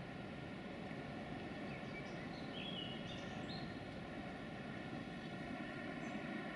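Steady low rumble of a distant approaching train, growing slightly louder towards the end, with a few short bird chirps about two to three seconds in.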